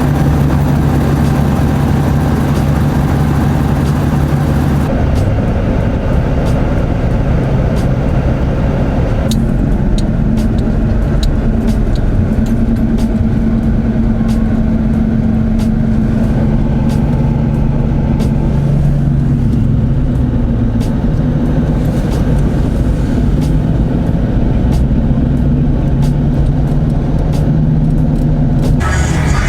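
Motor vehicle engines running with a steady low drone that shifts pitch a few times, over scattered short clicks.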